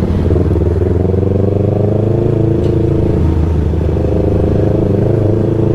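Yamaha R3's parallel-twin engine running at a steady cruise while riding, holding an even pitch, with road and wind noise underneath.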